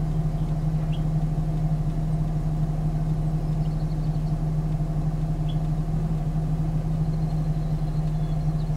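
Steady low drone of a vehicle engine idling, heard from inside the stopped car.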